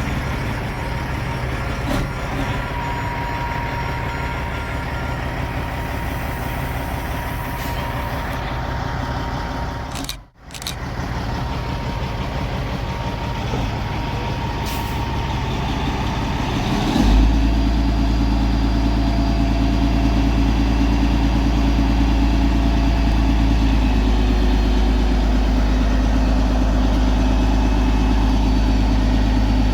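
Caterpillar 3406 diesel engine of a heavy dump truck running steadily. The sound cuts out briefly about a third of the way in, and from just past halfway it becomes louder and deeper.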